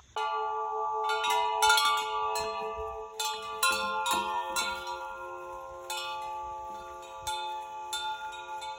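Tuned metal chimes of an outdoor music garden struck one note after another, about a dozen strokes at an uneven pace. The notes ring on and overlap into a shimmering chord, fading toward the end.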